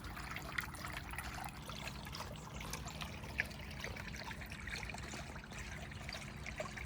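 Faint trickling water, with many small scattered drips and splashes over a steady low hum.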